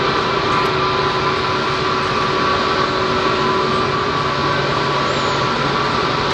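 Jet airliner engines running at low taxi power: a steady rush with constant high whining tones.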